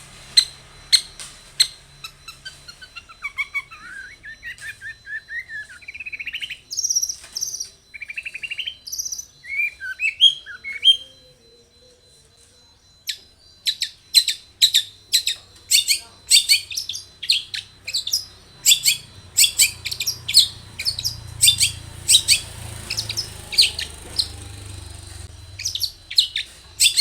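Long-tailed shrike (cendet) singing. A few sharp chips open the song, followed by a varied warbling passage of gliding notes and a brief pause. About halfway through comes a long run of rapid, harsh chattering notes.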